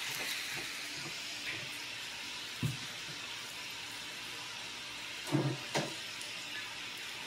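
Steady sizzle of cabbage frying in bacon grease in a large skillet, with a few short clunks as cookware is moved about in a cabinet, twice close together near the end.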